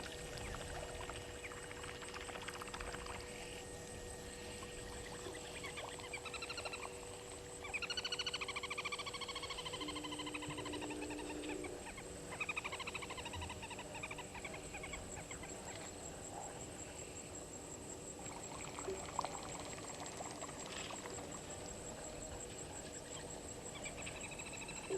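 Waterhole ambience: a steady high-pitched insect drone throughout, with bird calls that fall in pitch as rapid pulsing notes from about six to thirteen seconds in, and a few fainter calls later.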